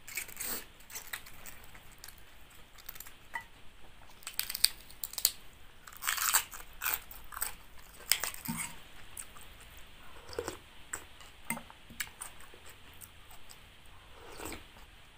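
Close mouth sounds of chewing and crunching food, with irregular crisp crackles as fresh cabbage leaves are torn by hand into a bowl of soup, loudest in the middle. Near the end, a spoonful of soup is sipped.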